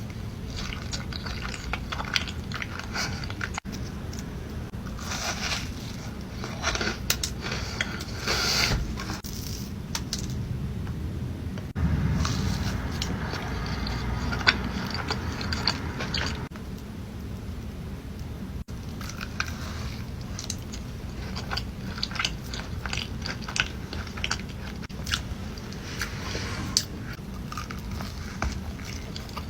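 Close-miked eating of cookies: repeated bites with crunching and crackling, and chewing in between.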